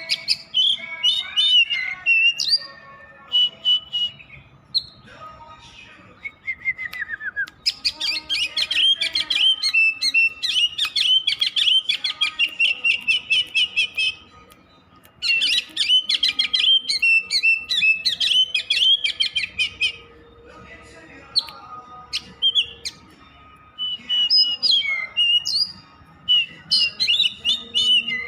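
Oriental magpie-robin (kacer) singing a rapid, varied song of whistles and trills. Short phrases give way to two long, dense runs in the middle, separated by brief pauses.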